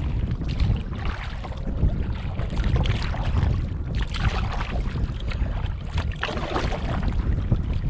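Strong wind buffeting the microphone in a heavy, uneven rumble, with water splashing and slapping against the canoe.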